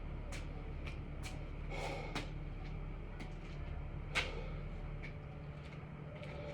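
Six-count burpees being done: scattered soft knocks and thumps of hands and feet landing on the floor, with a couple of hard breaths, the sharpest knock about four seconds in, over a steady low hum.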